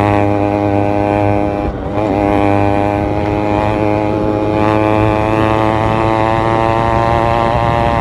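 Yamaha RX100's air-cooled two-stroke single-cylinder engine idling steadily, with a brief dip and wobble in pitch about two seconds in.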